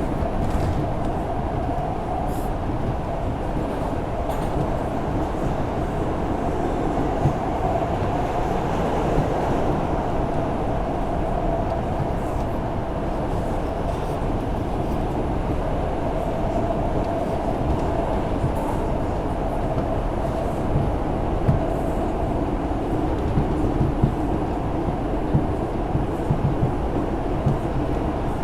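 An R142 subway train running at speed, heard from inside the car: a steady rumble of wheels on rail with scattered clicks.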